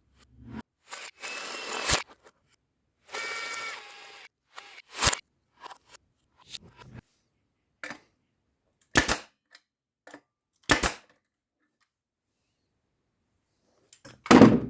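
Pneumatic nail gun firing: sharp shots several seconds apart, the loudest near the end, after two short bursts of hiss.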